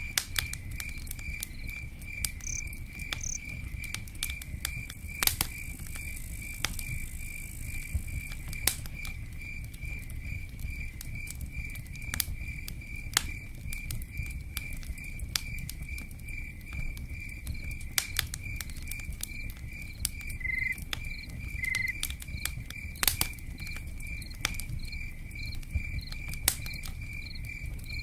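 Campfire and rain ambience: crickets chirping in a steady, rapid pulse over a low rush, with scattered sharp crackles and pops from the fire and pattering raindrops.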